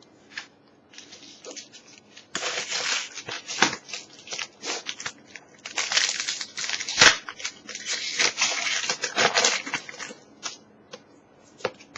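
Foil Pokémon booster pack wrapper crinkling and being torn open, a dense run of crackles and rustles with one loud click about seven seconds in.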